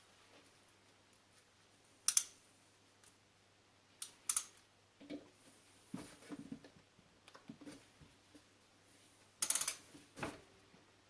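Intermittent sharp clicks and light knocks of metal tools and parts being handled, the loudest about two, four and nine and a half seconds in.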